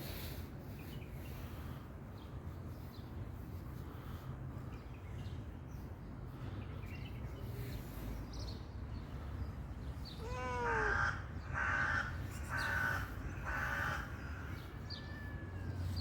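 A bird cawing four times, about a second apart, right after a short falling call, over a low steady rumble.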